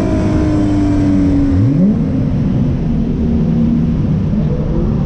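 Infiniti G35's V6 engine running hard. Its pitch sags slowly after a climb, with a quick rise in pitch about a second and a half in.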